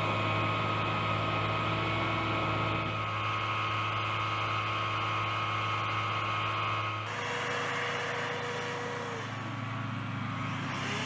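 Steady engine hum of heavy machinery running, which changes abruptly about seven seconds in to a second engine sound whose pitch dips and then rises again.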